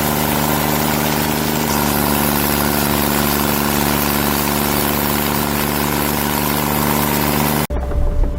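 Heavy machine engine running steadily at a constant speed, with a loud even hum and a wide mechanical noise; it cuts off suddenly shortly before the end, giving way to a different machine sound.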